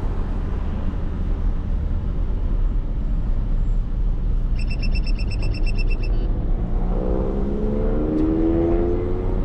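Mercedes-AMG GT63 S twin-turbo V8 running under the cabin's steady low road rumble. About seven seconds in the engine note rises steadily as the car accelerates. A short burst of rapid electronic beeps comes about halfway through.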